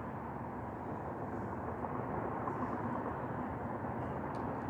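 Steady outdoor background rumble, with one faint click near the end.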